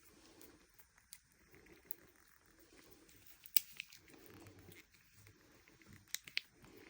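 A pet cat's faint sounds at close range, with a few scattered small sharp clicks, the loudest about halfway through.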